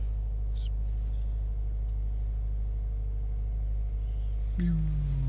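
2015 Subaru WRX's turbocharged 2.0-litre flat-four idling steadily, heard from inside the cabin. Near the end a low hum that slowly falls in pitch begins over it.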